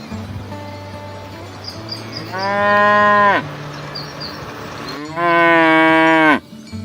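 Cows mooing: two long, loud moos, the first about two seconds in and the second about five seconds in, each lasting a little over a second.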